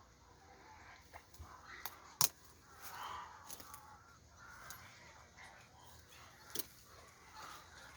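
Birds and fowl calling in an outdoor morning chorus: scattered short calls throughout, with a sharp click about two seconds in and another about six and a half seconds in.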